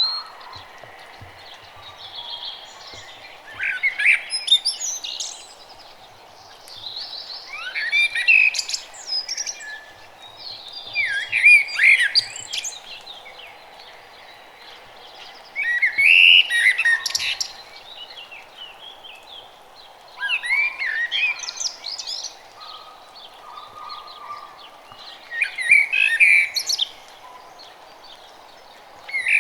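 A songbird singing short, rapid warbling phrases of about two seconds each, repeated every few seconds with pauses between, over a faint steady background hiss.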